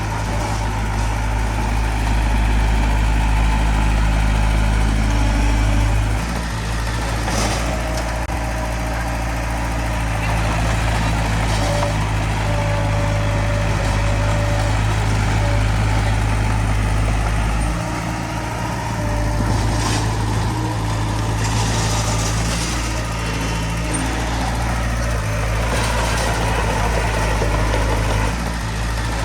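Heavy-equipment diesel engine running steadily, its load and pitch shifting a couple of times, with a few brief clanks.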